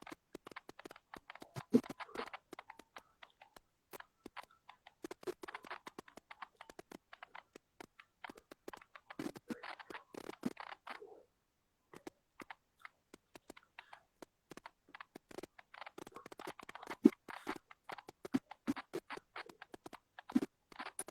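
Irregular scratchy rustling with many quick soft taps and clicks close to the microphone, pausing briefly about halfway through.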